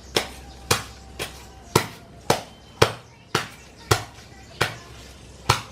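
A steady series of sharp blows, about ten in all at roughly two a second, each with a short ringing tail, typical of something being struck repeatedly on a construction site.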